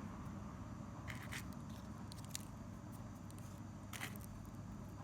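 A steady low hum with a few short clicks and rustles from handling small objects: two about a second in, one a little after two seconds, and one at four seconds.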